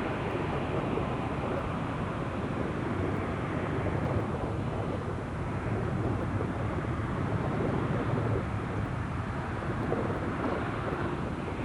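Jet airliner's engines during a departure from the runway, a steady, low rushing noise.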